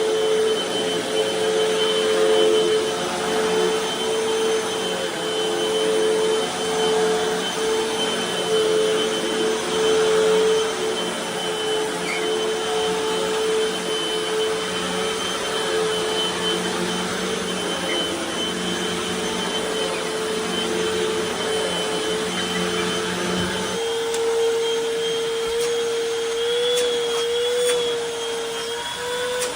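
Hoover T-Series Pet Rewind upright vacuum cleaner running steadily, a high motor whine over a rushing hiss. About 24 seconds in, a lower hum drops out and the whine wavers slightly in pitch. The owner suspects the motor fan is a tad off balance.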